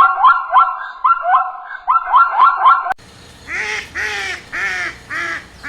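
Bird calls from two clips. First a fast series of short rising notes, about three a second. Then, after an abrupt cut, four loud, arched calls about half a second apart over a faint hiss.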